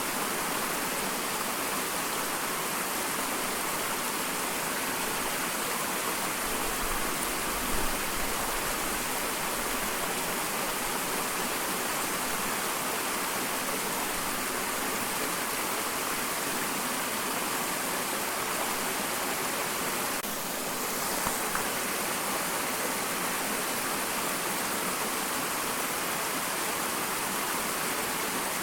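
Small waterfall splashing and rushing steadily, with a brief low thump about eight seconds in.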